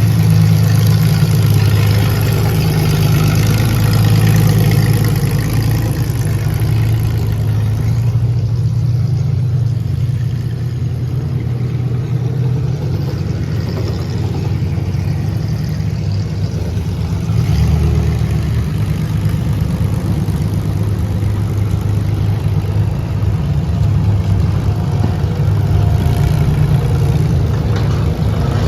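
Demolition derby car's engine running loud, a steady low rumble that eases off a little in the middle and picks up again about two-thirds of the way through.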